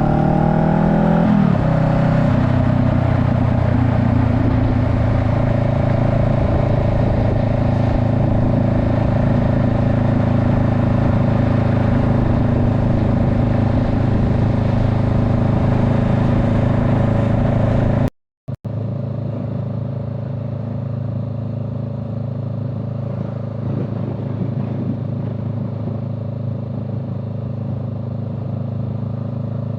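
A vehicle's engine runs under way with its pitch dropping about a second and a half in, then holding at a steady cruise. The sound cuts out briefly at an edit about two-thirds through and comes back steady, slightly quieter and duller.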